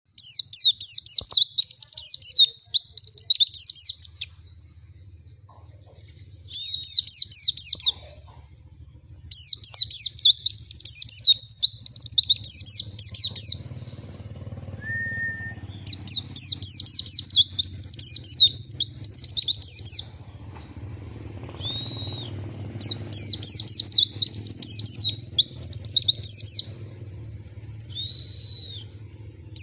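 White-eye (pleci) singing: rapid, high twittering phrases a few seconds long, broken by short pauses. A few short single calls fall between the phrases.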